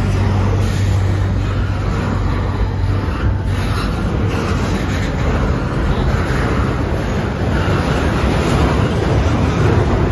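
Double-stack intermodal well cars rolling past close by: a loud, steady noise of steel wheels running on the rails, with a low hum that fades about three seconds in.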